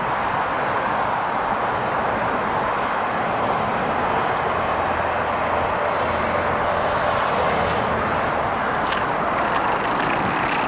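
Steady road noise of a car driving, with tyre and engine sound holding a constant level and a faint low hum rising in the middle.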